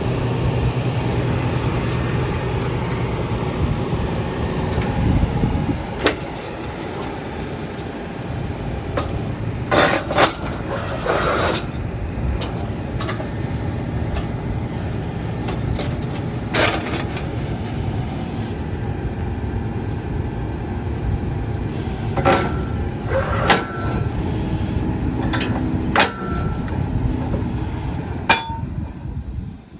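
Borewell drilling rig running steadily, with a scattering of sharp knocks, as the third length of drill pipe goes into the bore. The machine noise drops away near the end.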